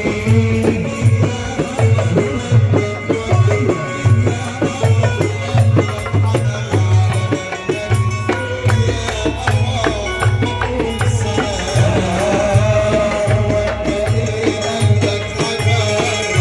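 Live Port Said simsimiyya folk music: the plucked simsimiyya lyre plays over a steady, driving low drum beat with rattling percussion.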